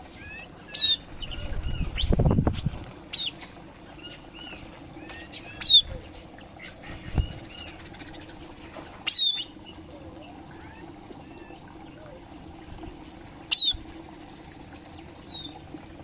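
Green leafbirds (cucak ijo) in an aviary: about six sharp, high calls that sweep steeply downward, soft twittering between them, and a burst of wing flapping about two seconds in.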